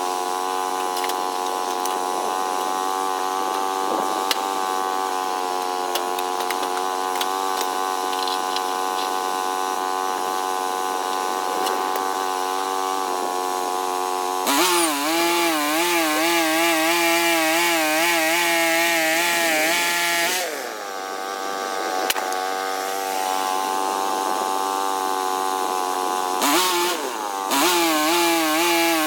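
Small sawmill running and sawing a log. The machine note is steady at first. About halfway it turns louder with a wavering pitch as the blade works in the cut, eases briefly, and comes back loud near the end.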